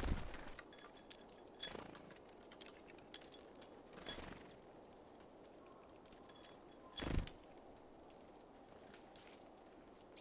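Small birds at a feeder: four short soft flutters or knocks a couple of seconds apart, the loudest about seven seconds in, with faint brief high chips between them.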